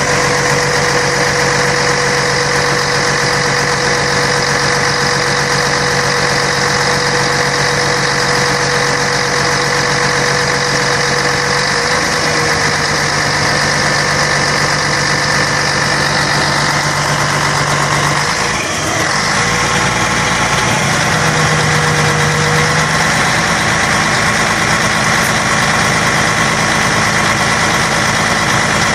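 Scania K113 bus's diesel engine running steadily, a continuous drone with a short dip and change in tone about two-thirds of the way through.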